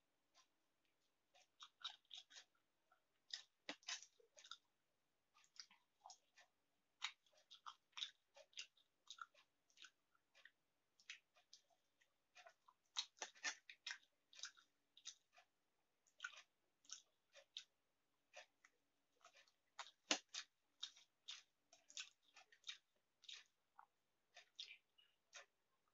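Faint chewing of egg omelette: many short, irregular wet mouth clicks, several a second.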